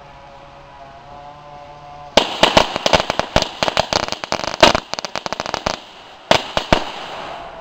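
A string of firecrackers going off: a rapid, irregular run of sharp pops starting about two seconds in and lasting some three and a half seconds, then a few last pops near the end.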